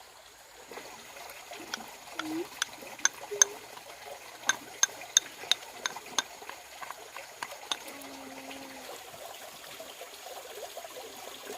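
About a dozen sharp knocks with a slight ringing tone, struck at an uneven pace over a few seconds, over steady trickling water.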